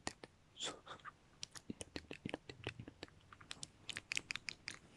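ASMR mouth sounds close to the microphone: many wet clicks and pops from the lips and tongue, coming irregularly in quick clusters, with a brief soft breathy hiss about half a second in.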